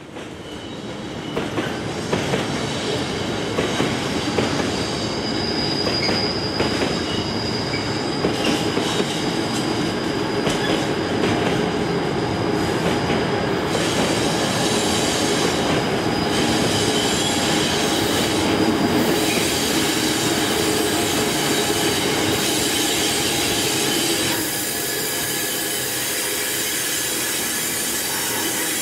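Class 92 electric locomotive and its train running on curved track: a steady rumble of wheels on rail, with a high thin wheel squeal through the first half.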